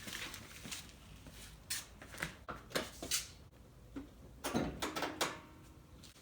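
Scattered short knocks and clicks, a few at a time, with a denser cluster a little after the middle.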